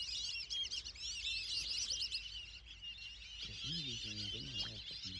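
A flock of whistling ducks calling: many high, quick whistles overlapping in a continuous chatter. A low voice murmurs in the last couple of seconds.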